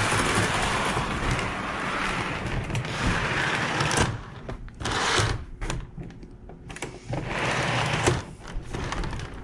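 Model train running along the track with a steady mechanical whirr and rattle for about four seconds, then starting and stopping in shorter spurts.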